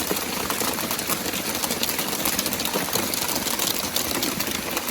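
Heavy rain falling on a tarp overhead: a steady, dense hiss crowded with many small, quick impacts.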